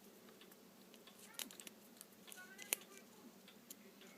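Faint light clicks and taps of paper craft pieces being handled and pressed onto a card, with one sharper click about two and a half seconds in.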